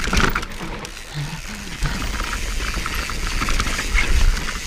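Mountain bike riding down a dirt trail: tyres rolling and skidding on dirt, the bike rattling with scattered clicks, and wind rumbling on the camera's microphone.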